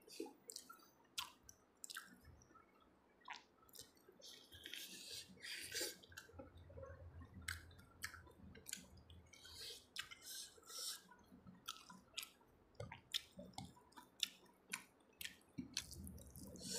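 Close-up wet chewing and lip smacking of a person eating rice and curry by hand, with many short mouth clicks throughout.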